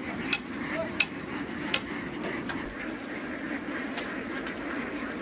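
A large flock of domestic ducks quacking together in a dense, continuous chatter, with a few sharp clicks, the loudest about a second in.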